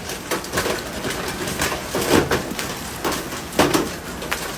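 Hailstones pounding down on hard surfaces: a dense, irregular clatter of knocks over a steady hiss, with a few heavier strikes about two and three and a half seconds in.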